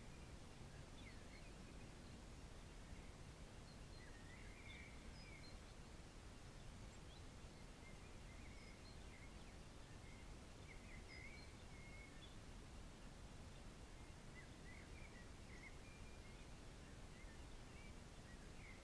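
Near silence with a faint steady hiss, and small birds chirping faintly in short scattered calls.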